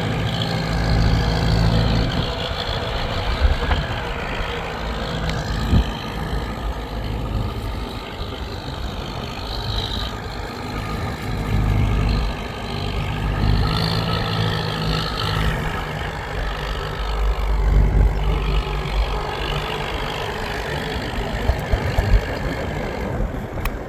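A motor vehicle's engine running, its low hum swelling and fading in level.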